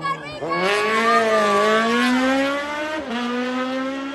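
Rally car engine accelerating hard, its pitch climbing steadily, then dropping sharply about three seconds in and holding high again.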